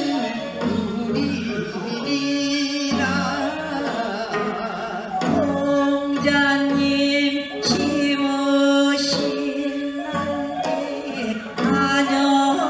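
Korean Gyeonggi folk song (Gyeonggi minyo) being sung, with long held notes that waver in a vibrato and break off every few seconds.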